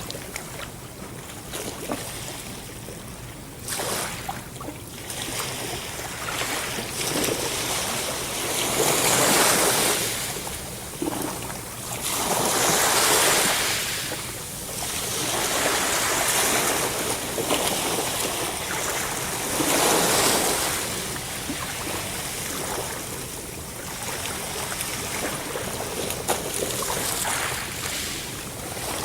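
Sea waves washing in: a steady hiss of surf that swells louder every few seconds as each wave breaks and then draws back.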